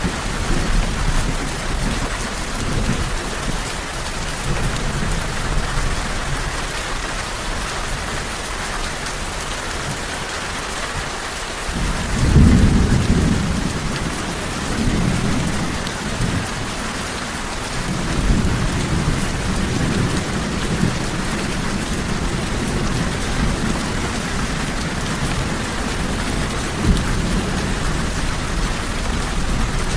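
Steady rain with rolling thunder. The rumbles are loudest about twelve seconds in and return from about eighteen seconds on.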